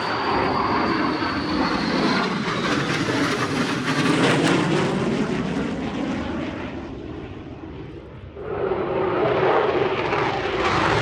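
Airplane engine noise from an aircraft passing overhead: a dense roar that holds for several seconds, fades around 8 seconds in, then swells again as another pass comes through.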